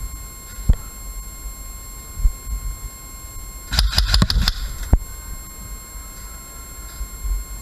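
A short rapid burst of airsoft gun shots, about ten a second, roughly four seconds in, with single sharp shots or clicks before and after it. Under it is a low rumble and a steady high electronic whine.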